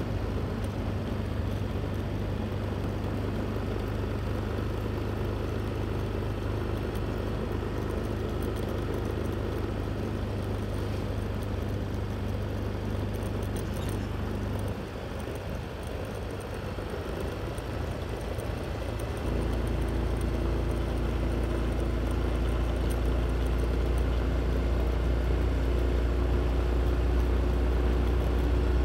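A motor vehicle running: a steady low drone with engine tones that drop away about fifteen seconds in, then return louder and lower about four seconds later.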